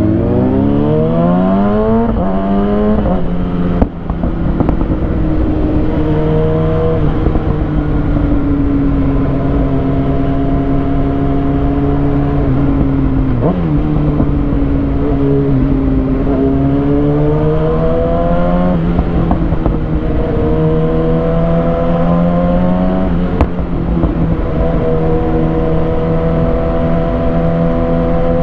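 A 2020 Kawasaki Ninja ZX6R's inline-four running through a Lextek SP7C carbon exhaust with decat headers. It revs up hard in the first few seconds, then cruises with the note holding and rising and falling with the throttle. There is a sharp click about four seconds in.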